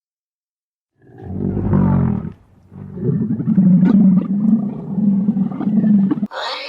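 A large animal roaring: one low call about a second in, then a run of shorter, evenly repeated low calls. A higher, different animal sound cuts in near the end.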